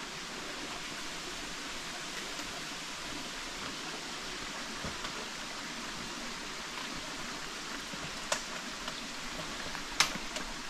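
Steady rush of running water from a rocky creek cascading down toward a waterfall, with two sharp knocks near the end.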